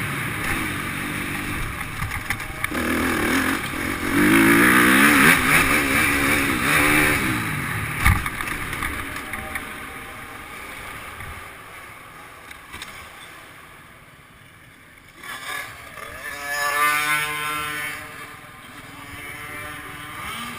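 Motocross bike engines revving up and falling away, with a sharp thump about eight seconds in; another bike revs up and back down near the end.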